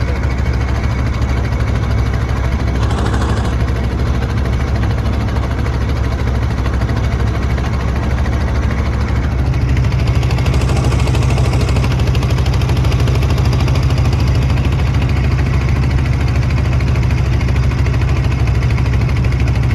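Boat engine running steadily with a low, even hum, growing a little louder about halfway through.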